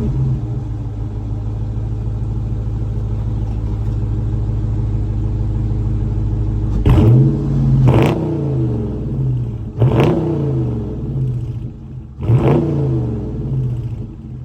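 2019 Dodge Charger R/T's 5.7-litre HEMI V8 on its stock exhaust, idling steadily just after start-up, then revved four times about seven seconds in, each rev climbing sharply and falling back to idle.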